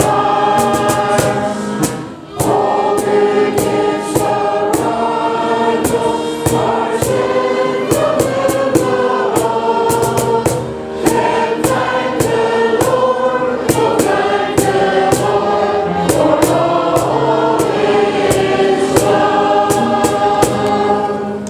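Choir of many voices singing in chorus, holding sustained chords that change every second or so. The last chord dies away at the very end.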